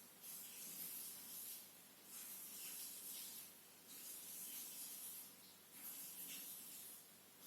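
Electrolux EWT 1377 VIW washing machine running: a soft hissing swish that comes and goes about every two seconds.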